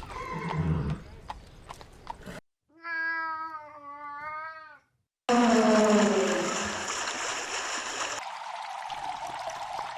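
Animal calls from separate clips: a clear, wavering pitched call lasting about two seconds, then, after a short break, a louder, rougher call that falls in pitch and trails off into a steady hiss.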